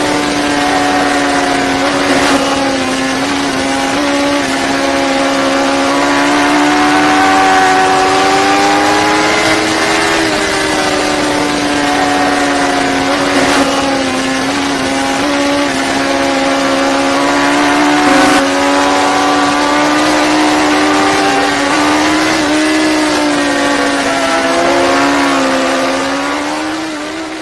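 Sport motorcycle engine running at high revs, its pitch drifting slowly up and down, with a few short sharp clicks. The sound fades out near the end.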